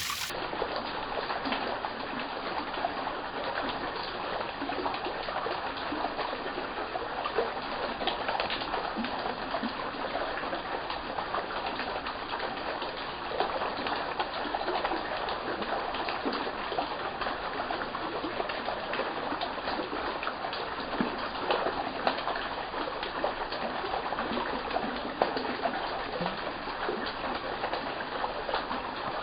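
Running water in a small stream or natural fountain, trickling steadily with many small splashes.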